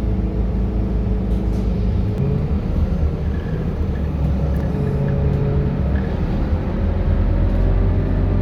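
Scania K230UB city bus's diesel engine running under way, a low rumble whose pitch shifts up and down a few times as the engine speed changes, growing heavier near the end.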